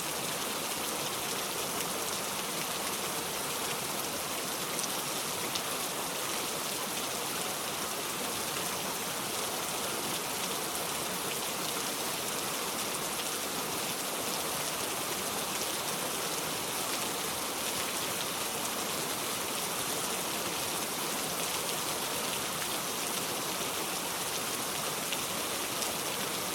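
Steady rain: an even, unbroken patter and hiss of rainfall.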